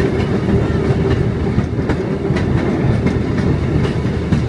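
Passenger train running along the track: a steady low rumble with a few faint clicks from the wheels on the rails.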